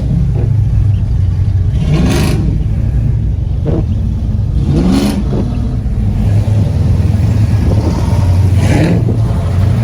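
Car engine and exhaust running, a loud, steady low drone, with short higher bursts about two, five and nine seconds in.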